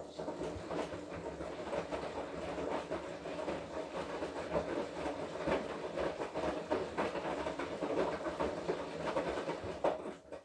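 Washing machine drum turning during a wash cycle, with the motor running and laundry tumbling in a busy, clattering rush. It starts suddenly and stops after about ten seconds, the usual turn-and-pause rhythm of a wash.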